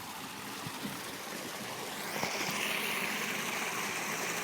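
Flowing water: a steady rushing hiss that grows louder about two seconds in.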